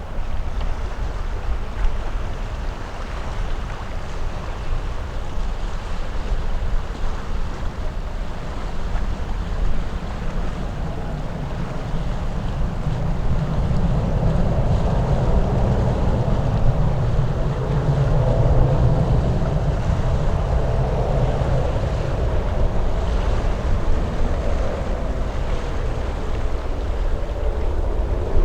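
Jet airliner's engines at takeoff power, a rumbling noise that grows louder from about twelve seconds in and eases slightly near the end, with wind buffeting the microphone.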